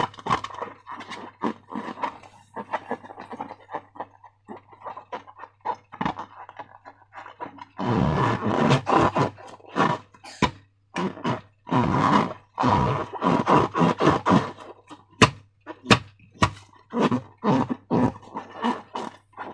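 Slime being squished and worked by hand, giving irregular sticky squelches and crackles with sharp clicks. The bursts grow thicker and louder from about eight seconds in, over a faint steady low hum.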